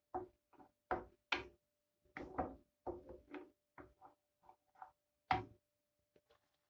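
Kitchen utensils clicking and knocking against cookware: about a dozen light, separate taps over five seconds, with a faint steady hum underneath.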